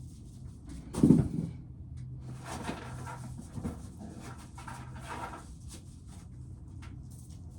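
Dry ear corn being shelled: a single loud knock about a second in, then a few seconds of irregular rattling and scraping as kernels come off the cob.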